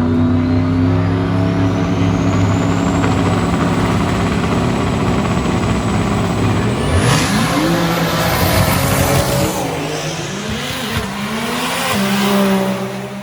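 High-performance car engine running loud and steady with a high whine rising over the first few seconds, then from about seven seconds in a noisier stretch with the engine pitch sweeping up and down before it settles and fades near the end.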